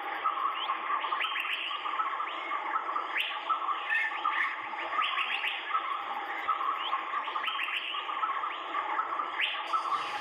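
A dense chorus of birds calling together, full of short rising notes repeated over and over on top of a chattering background.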